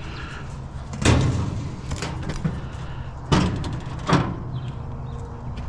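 Three hard bangs of heavy objects being set down or knocked together, the first about a second in and two more close together past three seconds, over a steady low hum.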